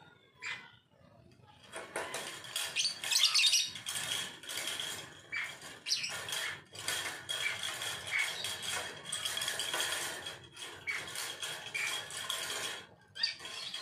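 An agitated lovebird making harsh, rapid chattering and scuffling sounds mixed with light clattering, starting about two seconds in and stopping shortly before the end.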